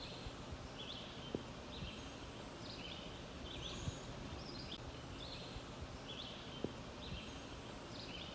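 Outdoor ambience with a steady background hiss and a small bird repeating short, high chirps about twice a second. Three sharp clicks stand out, spaced a couple of seconds apart.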